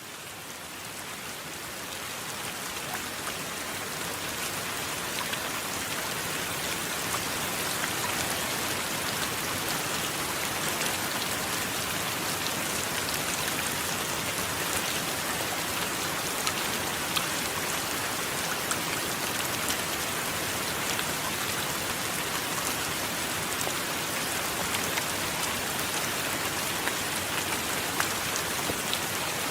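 Steady heavy rain with individual drops ticking sharply through it. It fades in over the first several seconds, then holds even.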